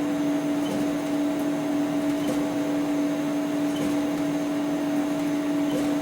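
CNC router's stepper motors driving the X axis: a steady whine that holds one pitch, with a few faint ticks about every second and a half.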